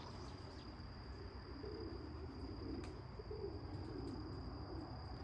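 Soft, low pigeon cooing, a few hooting notes in the middle, over a steady high-pitched insect trill.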